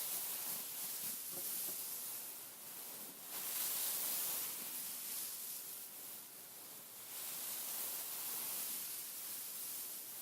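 Fingers scratching and rubbing over the beads of a beaded pillow: a soft, high, hissy scratching that swells and eases in waves of a few seconds.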